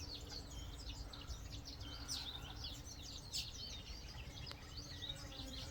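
Many small birds chirping and twittering together in a dense, continuous chorus of short, high chirps, over a faint low background rumble.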